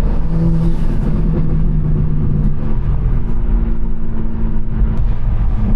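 BMW M4 Competition's twin-turbo straight-six running steadily under way, with road and tyre rumble; the engine note steps up a little about three seconds in.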